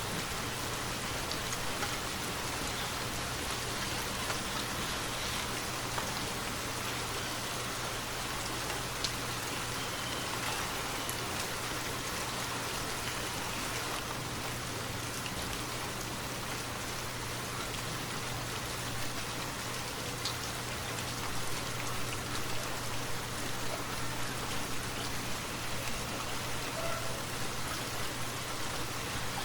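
Steady rainfall: an even, continuous hiss with scattered faint drop ticks.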